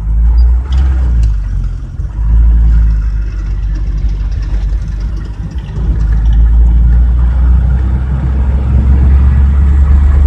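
Old car engine running on LPG, revved up and back down a few times, its low drone swelling about two seconds in and again about six seconds in; it runs smoothly on the gas.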